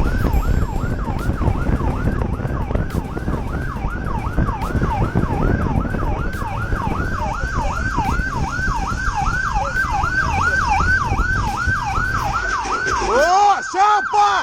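Police siren in rapid yelp mode, about three pitch sweeps a second, over the low rumble of engine and wind during a pursuit. Near the end the rumble drops away and a second, lower sweeping tone joins in.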